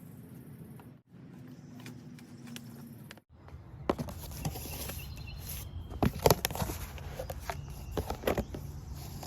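A cardboard box and its packaging being handled and opened by hand: rustling and scraping with many sharp clicks and crackles, starting about four seconds in. Before that, only a steady low background hum.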